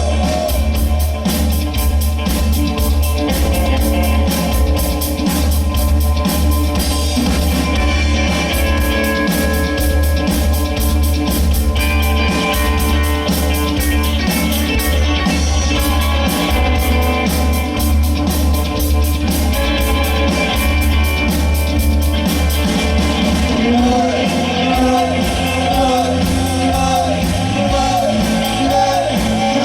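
Live rock band playing: lead guitar, bass guitar and drums, with a strong steady bass line and drum beat throughout. Near the end a wavering melodic line comes in above the band.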